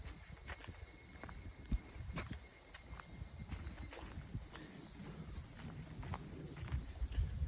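A steady, high-pitched insect drone, with irregular footsteps.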